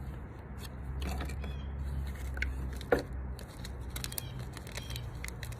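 Handling noise from gardening materials being moved about: scattered small clicks and rustles, with one sharp tap about three seconds in, over a low steady rumble.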